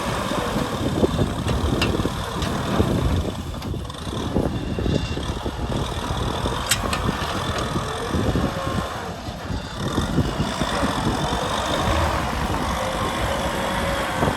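Kubota M6040 SU tractor's diesel engine running steadily, with a continuous low rumble.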